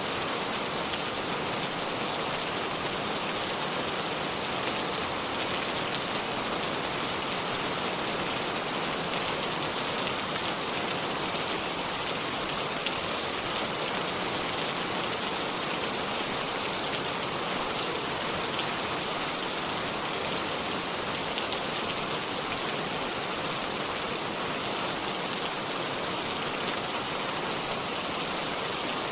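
Steady rainfall, with fine drops pattering on surfaces and on leaves, even throughout with no thunder.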